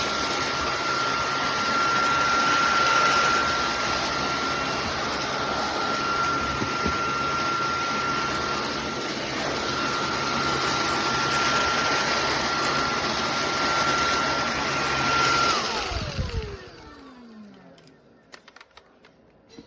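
SunSare X11 cordless stick vacuum running with a steady high motor whine. About three-quarters of the way through it is switched off, and the whine glides down as the motor spins down to a stop. A few light clicks follow near the end.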